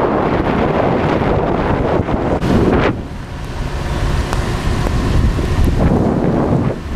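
Wind rushing over the microphone of a moving motorbike, mixed with road noise. The rush eases sharply about three seconds in, then builds again more steadily.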